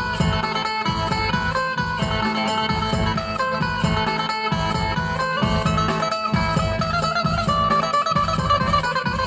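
Isan phin (Thai plucked lute) music: a plucked melody over a steady pulsing bass beat.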